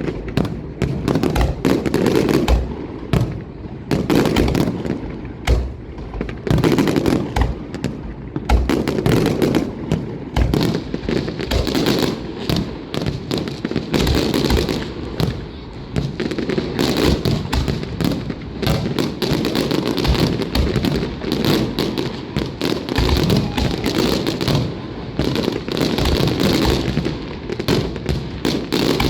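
Fireworks display: a dense, unbroken run of bangs and crackles from shells bursting in quick succession.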